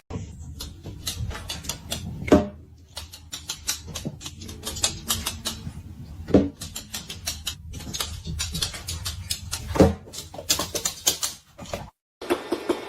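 Rapid irregular clicking and tapping, with three short animal calls a few seconds apart.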